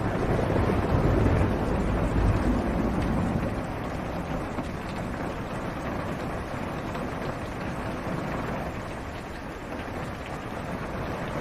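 Steady rain drumming on a car's roof and windshield, heard from inside the car. A low rumble of thunder swells in the first few seconds and fades.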